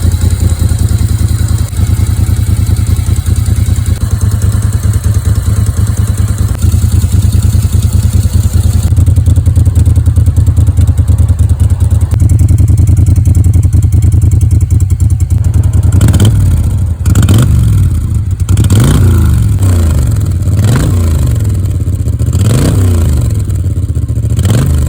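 1984 Moto Guzzi V50's transverse V-twin engine running steadily, then blipped repeatedly for the last nine seconds or so, its pitch rising and falling with each of about six quick revs.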